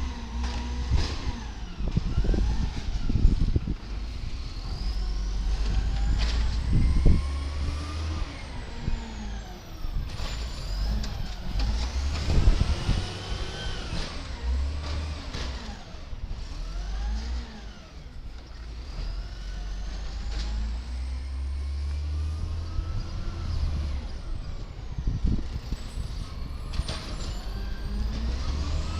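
Garbage truck's diesel engine revving up and falling back again and again, as the driver revs hard to work the hydraulics. Occasional sharp knocks and air-brake hisses come over the engine.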